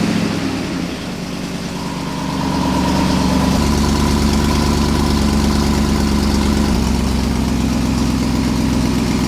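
BMW S62 4.9-litre V8 in an E39 M5 idling just after start-up, with its rear muffler cut off so the exhaust exits unsilenced. The idle rises a couple of seconds in, steps up in pitch, then eases back a little.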